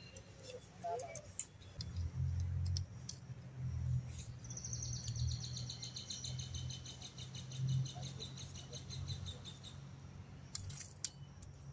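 A bird's high, rapid trill, starting about four seconds in and lasting about five seconds, over a low rumble on the microphone and a few scattered clicks.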